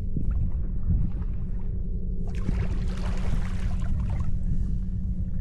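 Wind buffeting the microphone as a steady low rumble, with a stretch of hissing water noise around a kayak for about two seconds mid-way.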